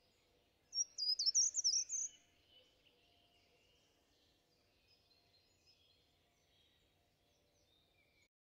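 Birds singing in woodland: about a second in, one loud, quick phrase of high chirping notes lasting about a second, then fainter scattered bird calls until the sound cuts off near the end.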